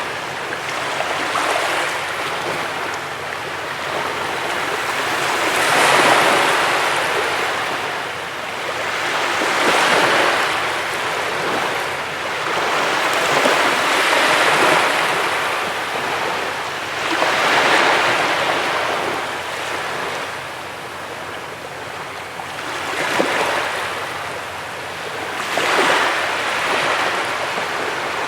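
Ocean waves breaking and washing up a beach, each surge swelling and easing back every three to four seconds.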